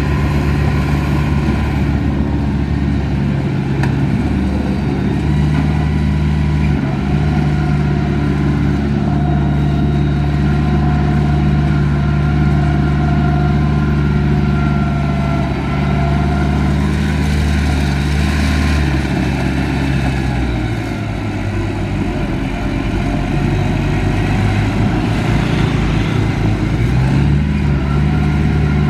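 Heavy diesel engine of earthmoving equipment running steadily. It eases off for a few seconds about two-thirds of the way through, then picks up again.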